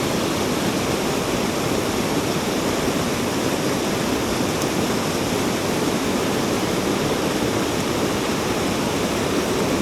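Rushing water of a mountain stream: a steady, even roar of running water.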